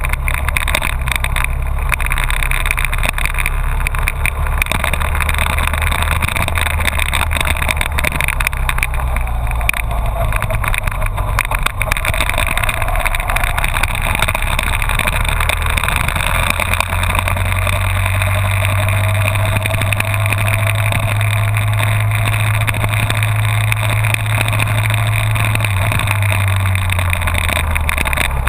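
Honda VFR1200F's V4 engine running steadily under way, with a rush of wind over it. The engine note climbs and holds higher through the second half, then drops near the end.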